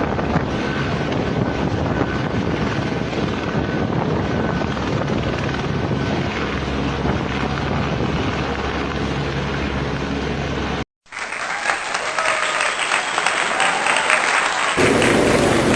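Steady helicopter engine and rotor noise for about eleven seconds, then a sudden cut to another recording of loud hissing, crackling noise, with a deeper rumble joining near the end.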